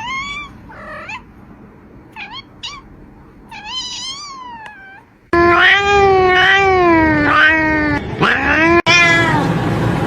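Cat meowing: a few short, soft mews in the first half, then, about five seconds in, much louder long drawn-out meows that bend in pitch.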